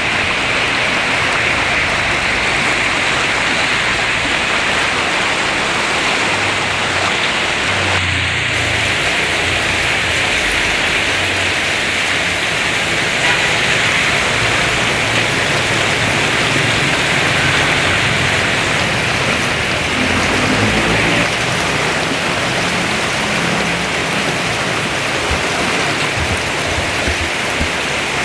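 Heavy rain pouring down steadily, a dense, even hiss; about eight seconds in the hiss turns brighter.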